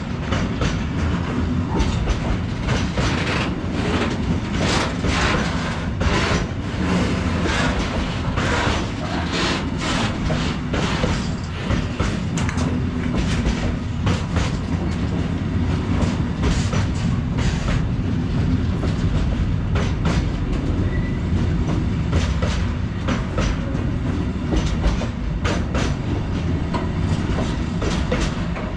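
A freight train rolling past, its wagon wheels clicking and knocking irregularly over rail joints over a steady low rumble.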